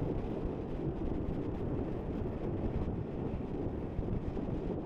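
Wind buffeting a helmet-mounted microphone on a moving motorcycle: a steady, dense rumble.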